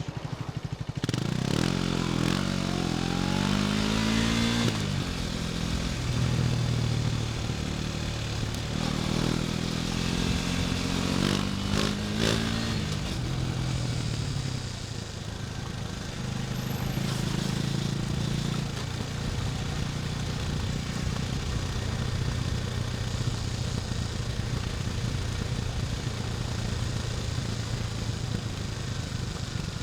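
KTM 250 Duke's single-cylinder engine under way: it climbs in revs and drops back several times through gear changes in the first half, then holds a steady note at cruising speed.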